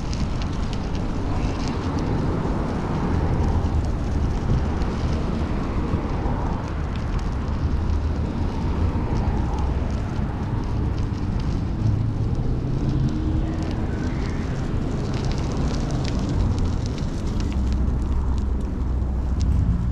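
Wind rushing over the microphone while riding a bicycle, with the low rumble of road traffic underneath.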